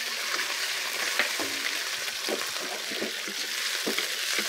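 Raw chicken breast pieces sizzling in hot soy oil and chopped garlic in a wok, stirred with a wooden spoon that knocks and scrapes against the pan several times.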